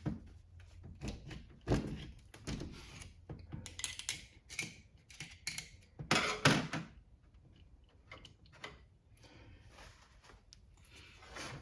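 Hand tools scraping, clicking and knocking against a pinion bearing's roller cage in irregular strokes while a roller is worked loose, with a few sharper knocks about two seconds in and again around six seconds.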